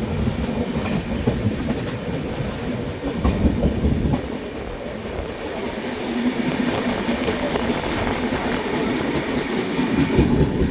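Passenger express train running along the track, heard from on board: a continuous rumble and rattle of wheels and carriage, with a steady low hum coming in about halfway.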